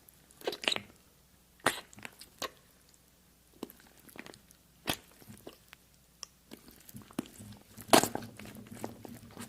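Close-miked crunchy biting and chewing: a handful of sharp crunches a second or more apart, the loudest about eight seconds in, with a low hum coming in near the end.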